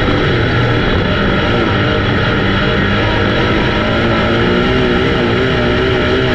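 A race car engine running hard at speed, its pitch rising and falling slowly, with music mixed in.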